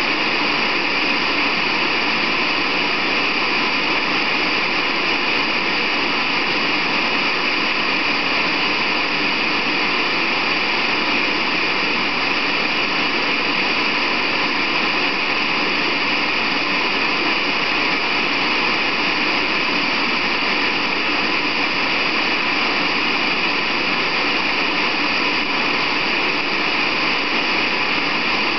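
Steady, unchanging hiss of noise, brightest in the upper-middle range, with no events or changes.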